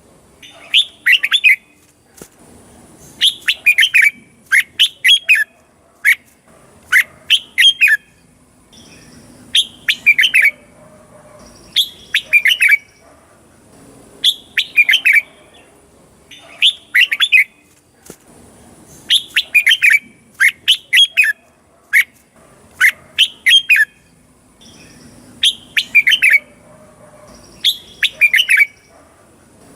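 Red-whiskered bulbul singing: short, quick phrases of clear sliding whistled notes, repeated about every two seconds.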